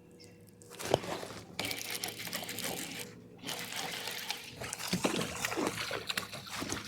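Water splashing and sloshing close by, with irregular knocks and rattles, beginning about a second in.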